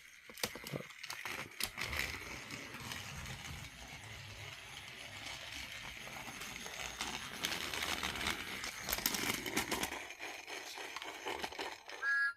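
Battery-powered motorized toy train engine running on plastic toy track: a small electric motor's whir with irregular clicking and rattling of the wheels.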